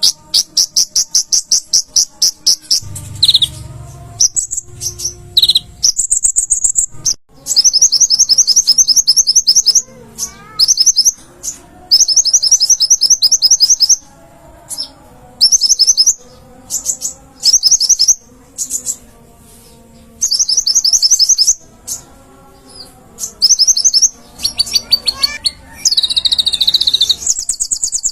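Olive-backed sunbird (kolibri ninja) singing in loud bursts of fast, high, evenly repeated trilling notes, each burst a second or two long, with short pauses between them.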